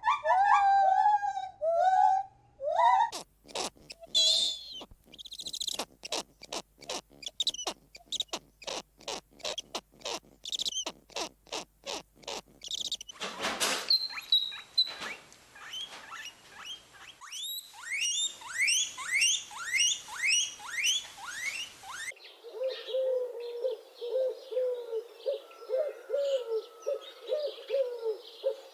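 A string of different animal calls edited back to back, each breaking off suddenly: wavering whining calls, then a long run of rapid repeated call notes, then repeated falling chirps. For the last six seconds there is a steady series of low hooting calls, about two a second.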